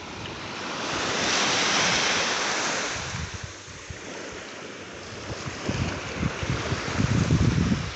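A small wave washes up the beach. Its hiss swells over the first couple of seconds and fades. Wind buffets the microphone in the later half.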